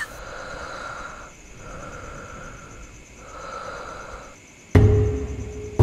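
Three slow, even breath-like rasps, each lasting about a second. About three-quarters of the way in, a sudden loud low hit, a horror-score sting, rings on as a deep drone.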